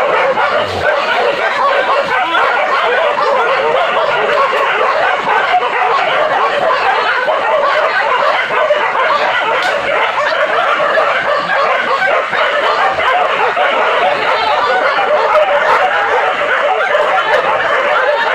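A pack of village hunting dogs barking and yelping together without pause, a dense overlapping clamour, as at a wild boar brought to bay.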